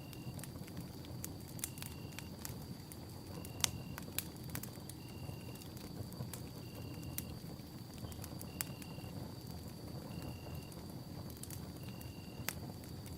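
Campfire burning with a steady low rush and frequent sharp crackles and pops of burning wood, one pop louder than the rest a little past three seconds in. Over it, a steady high-pitched drone and a short high call repeating evenly about every second and a half to two seconds, like a night insect or frog.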